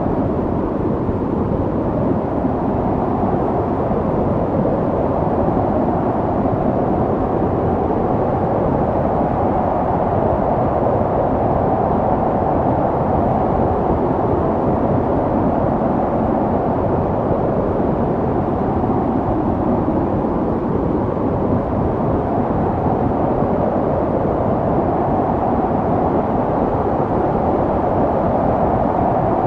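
Snowstorm wind blowing, a steady deep rushing noise that swells and eases slowly.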